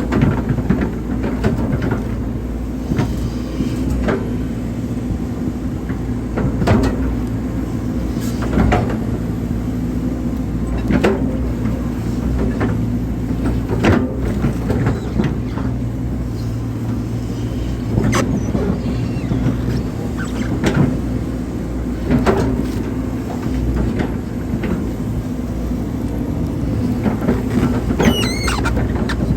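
Hydraulic excavator's diesel engine running steadily under load while it digs, with metal clanks every few seconds and a wavering high squeal near the end.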